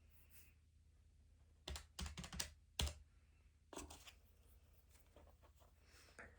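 Keys being tapped in short quick runs, one run a couple of seconds in and another near four seconds, with a few lighter taps after; a low steady hum sits underneath.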